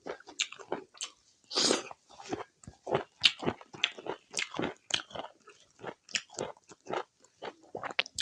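A person chewing a mouthful of food close to the microphone: many short, irregular chewing and biting noises, about two or three a second.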